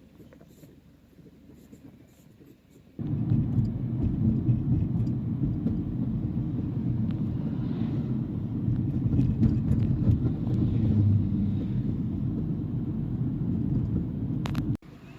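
Steady low rumble of a car on the move, starting abruptly about three seconds in and cutting off suddenly just before the end.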